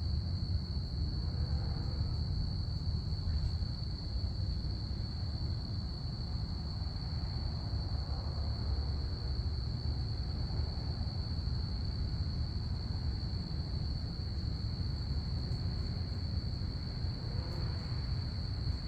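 Crickets chirping in a steady, continuous high-pitched chorus, over a low steady rumble.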